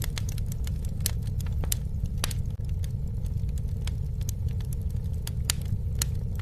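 Campfire burning: a steady low rumble of flames with irregular sharp crackles and pops.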